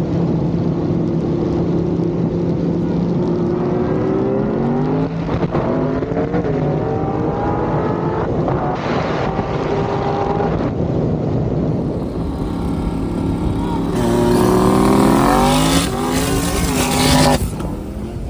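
Car engine at full throttle, held steady at first and then pulling up through the gears, its pitch climbing and dropping back at each shift. The loudest pull comes near the end, with a rushing hiss over the engine note.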